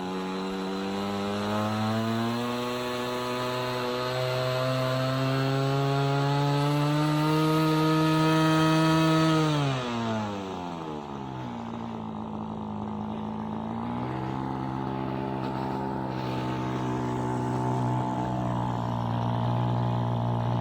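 Cold nitro glow engine of a Seagull Boomerang V2 RC trainer plane running with its propeller. It speeds up gradually for about nine seconds, drops back to a low idle about ten seconds in, then picks up slightly to a steady fast idle for the rest.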